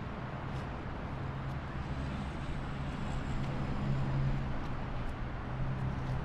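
Steady outdoor ambience: an even hiss with a low, steady hum underneath that grows a little stronger about a second in.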